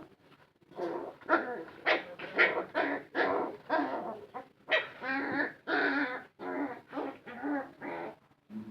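A dog giving short, repeated whining yelps, about two a second, with a brief pause near the end.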